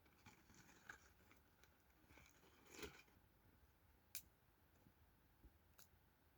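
Near silence, broken by a few faint, sharp clicks and two short soft rustles.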